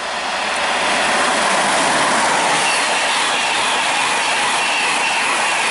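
Virgin Trains East Coast InterCity 225 express (Class 91 electric locomotive and Mark 4 coaches) passing at high speed: a loud rush of wheels on rail and air, building over the first second as it nears, then steady as the coaches go by. A faint high whine joins about halfway through.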